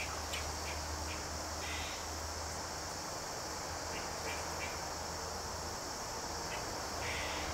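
Steady high-pitched chorus of crickets, with a few short scrapes of a carving knife cutting basswood over it.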